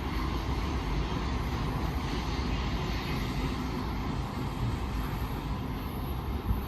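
Steady low rumble of a distant BNSF freight train rolling through the curve.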